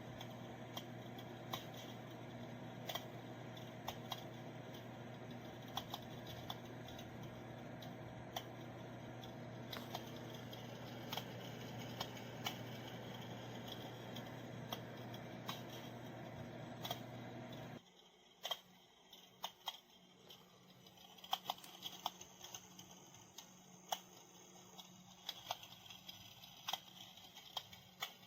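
Electric fireplace heater's fan running with a steady hum, under the unit's tinny crackling-fire sound effect of scattered sharp clicks. About 18 seconds in the fan cuts off abruptly and the crackle effect carries on alone, quieter.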